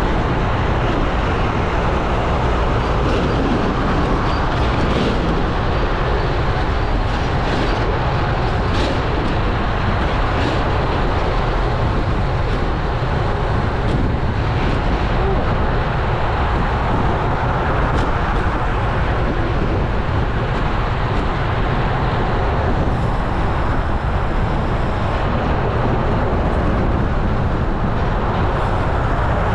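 Steady wind rush and low rumble on a GoPro Hero 11's microphone while riding a road bike, mixed with tyre and road noise, with a few faint ticks.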